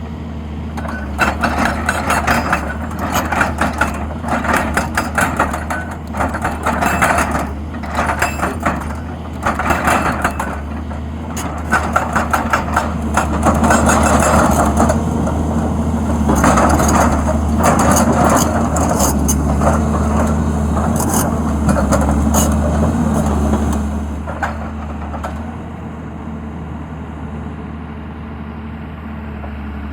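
XCMG XE200DA excavator working, its diesel engine running steadily under a lot of clattering and knocking in the first half. The engine loads up and grows louder through the middle, then eases back to a quieter, steadier run near the end.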